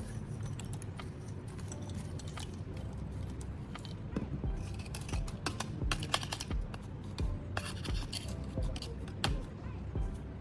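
Hand work on the kettle stove's metal shells, with material being packed or scooped in: irregular scraping and rubbing with scattered light clicks and knocks, thicker and sharper in the second half, over a steady low hum.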